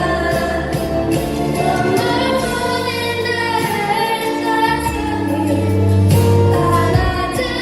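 A choir singing, with instrumental accompaniment.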